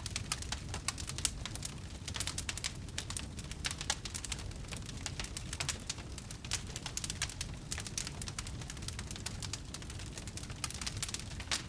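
Wood fire burning in a fireplace, crackling and popping continually over a low steady rumble of the flames.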